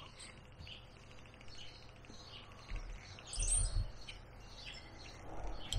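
Wild birds chirping and calling repeatedly. A louder burst of noise comes a little past the middle.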